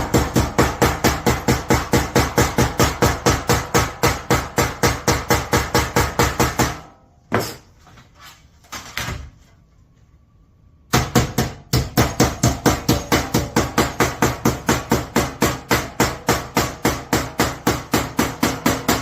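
Rapid, even hammer blows on sheet metal, about five a second, closing Pittsburgh lock seams. They stop about seven seconds in, with a couple of stray knocks, then start again about four seconds later.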